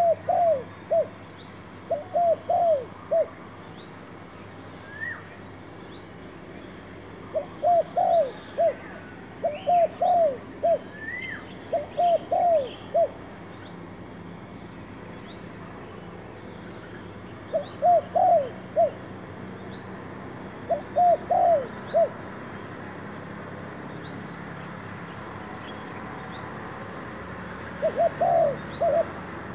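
Spotted dove cooing in short phrases of three or four notes, repeated every few seconds, with small birds chirping more faintly in between.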